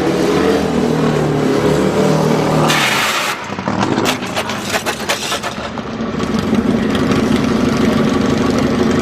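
Motorcycle engine running and revving. Scattered knocks and clatter come about halfway through, before the engine settles into a steady run again.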